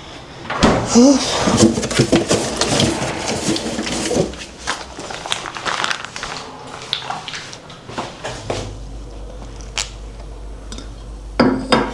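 Kitchen clatter of dishes, pots and utensils being handled, with sharp clinks and knocks throughout and a low steady hum coming in about two-thirds of the way through.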